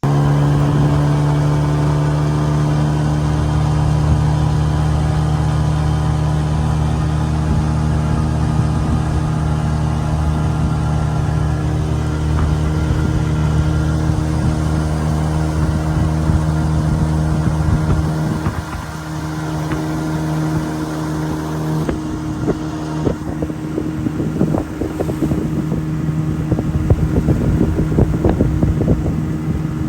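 Small boat's outboard motor running steadily under way upriver. In the last third the sound turns rougher, with irregular knocks over it.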